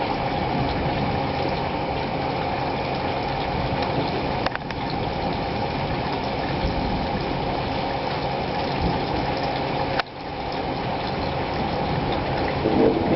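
Steady noise of rain falling in a thunderstorm, with a sharp click and a brief drop in level about four and a half seconds in and again about ten seconds in.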